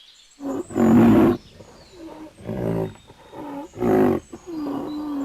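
Animal calls: loud, harsh calls about a second in and about four seconds in, with quieter calls and a held note between them.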